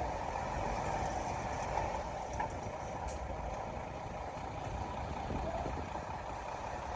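Diesel engine of heavy earth-moving machinery (bulldozer or dump truck) running steadily, with a faint click about three seconds in.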